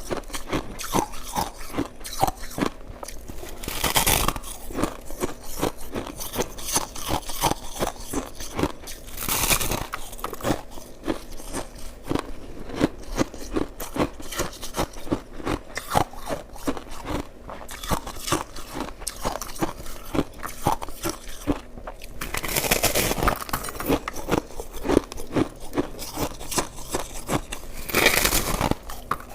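Close-miked crunching of shaved ice being bitten and chewed, a dense run of rapid crisp crackles. It swells into a few louder, longer crunches, about four times.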